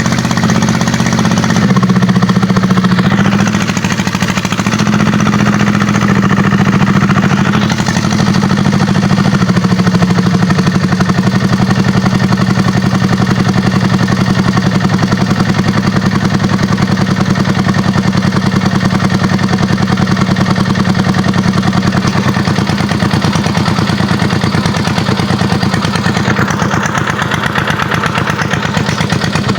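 Kubota tractor's diesel engine running, its pitch shifting a little over the first several seconds and then holding steady.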